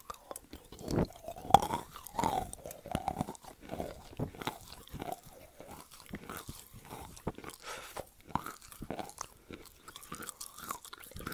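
Wet chalk being bitten and chewed right at a wired earphone's inline microphone: crunching bites, the loudest in the first couple of seconds, then steady crackly chewing.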